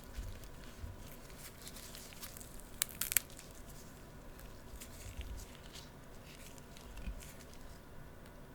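Close-miked crackling and clicking from tanghulu, fruit skewers glazed in hard sugar, with scattered small cracks, two sharp loud ones about three seconds in, and a few soft low thumps.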